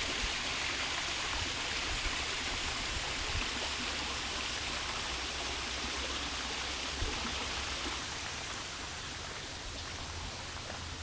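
Steady rush of running water, like a stream or garden water feature, easing off slightly in the last few seconds.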